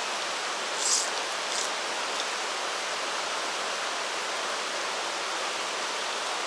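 Stream water rushing steadily over rocks. Two brief high hisses come about a second in and shortly after.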